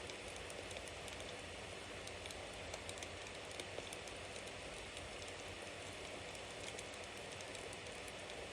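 Bonfire burning: a steady hiss of flames with frequent small crackles and pops from the burning wood.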